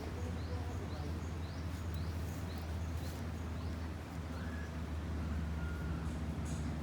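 Outdoor ambience with birds calling: one repeats a short rising chirp about twice a second through the first half, and a few whistled notes follow, over a steady low rumble. A few sharp clicks or knocks come near the end.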